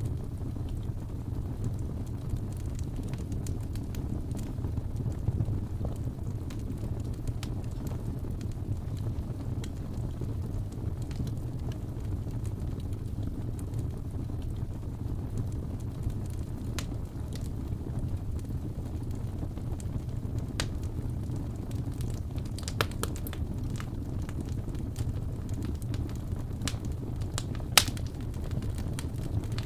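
Fireplace fire burning with a steady low rumble and scattered sharp crackles and pops, the loudest pop about 28 seconds in.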